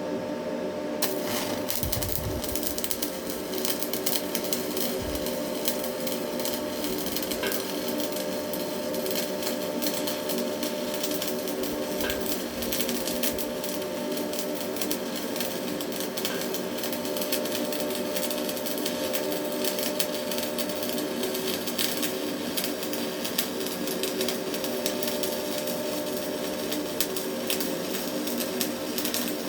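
Stick-welding arc crackling and sizzling steadily as a Hilco rod burns, struck about a second in, over a steady hum.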